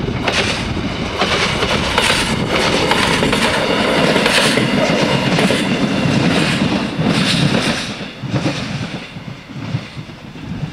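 A BR 628 diesel multiple unit running past, its wheels clicking over the rail joints in a quick rhythm. The sound fades away about eight seconds in.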